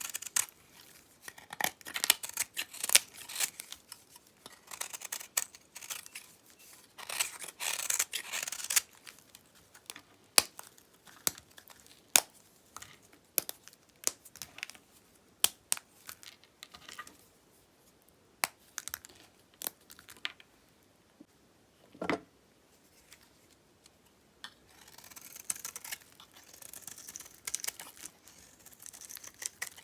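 Dry dyed soap being cut and broken up with a knife: crisp crackling and crunching in bursts, with single sharp snaps between, one stronger snap about two-thirds of the way through.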